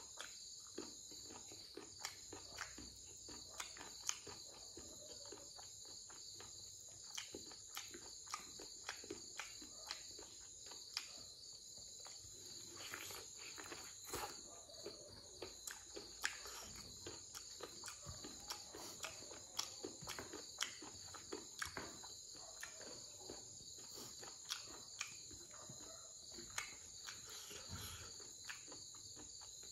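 Close-up eating sounds of braised pork ear and skin eaten by hand: many short, sharp chewing and mouth clicks and smacks, over a steady high-pitched background drone.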